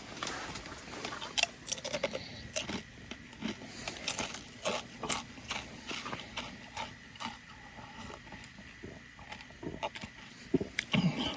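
Objects being handled by hand: irregular clicks, clinks and knocks, most frequent in the first half.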